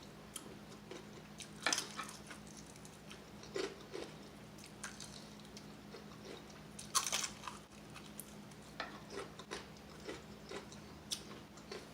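Close-up biting and chewing of extra-crispy breaded fried chicken wings: irregular crisp crunches and crackles, the loudest about seven seconds in, over a faint steady low hum.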